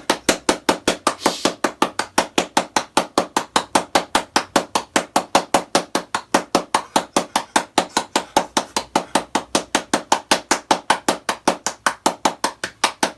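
Rapid, evenly spaced hard knocks, about five or six a second, keeping a steady beat without a break.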